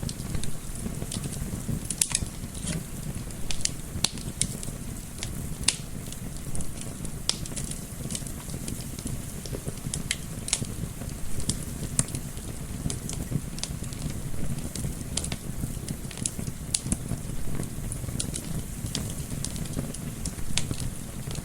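Wood fire crackling, with frequent irregular sharp pops and snaps over a steady low rush of gentle wind.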